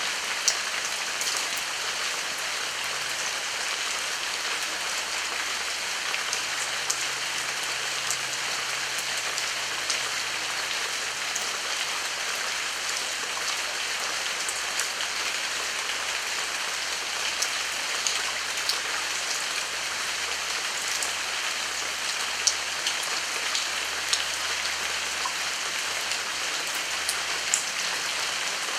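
Heavy rain falling steadily, a dense even hiss with scattered sharp ticks of individual drops striking nearby.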